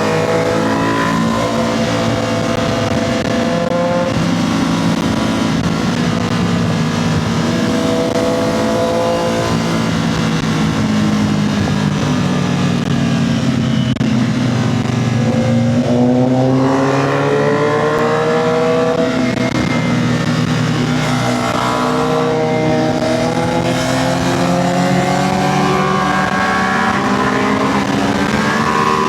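Motorcycle engine heard from on board at speed, its pitch rising and falling as it revs up and is shifted and rolled off through corners, over steady wind rush. About halfway through the engine note drops, then climbs again.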